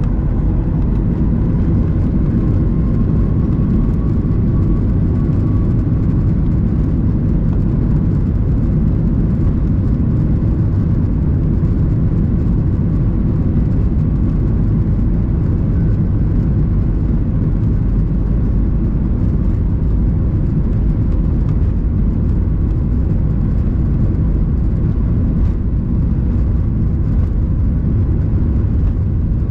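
Boeing 737 MAX 8's CFM LEAP-1B jet engines running at high thrust, heard inside the cabin as a loud, steady rumble with a faint steady hum on top.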